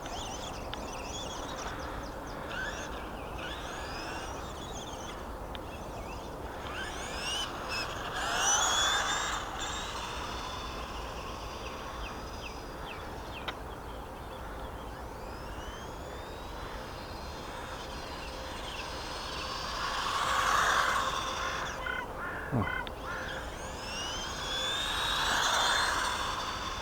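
Brushed 370-size electric motor of a 1/18 RC short course truck whining up in pitch as the truck accelerates. The louder rising whines come about eight seconds in and twice near the end.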